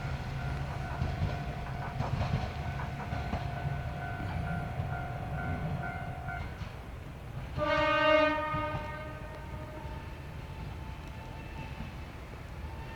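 Kishu Railway diesel railcar running with a steady low rumble. Its horn sounds one blast of about a second, a little over halfway through.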